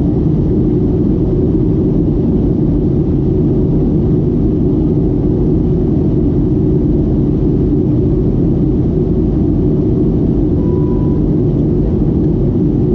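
Steady low rumble of a Boeing 737-800 in flight, with its CFM56-7B engines and airflow heard from inside the cabin. A short, faint single tone sounds about ten seconds in.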